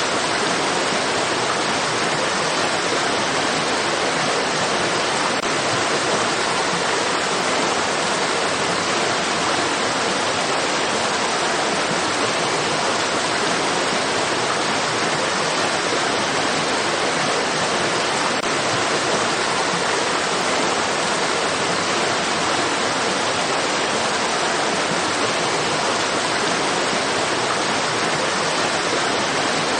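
Flowing stream water rushing steadily: an even, unbroken hiss with no distinct splashes or pauses.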